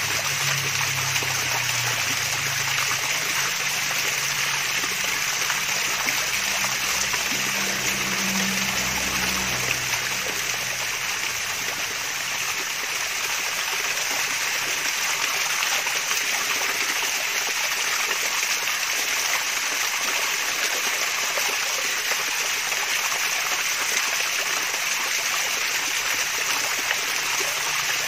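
Small waterfall of clear water splashing and trickling steadily, a bright even rush with no pauses.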